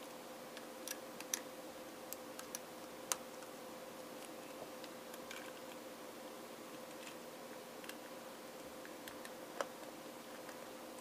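Scattered light clicks and ticks of small hand tools and microphone parts being handled during a repair, the loudest about three seconds in, over a steady low hum.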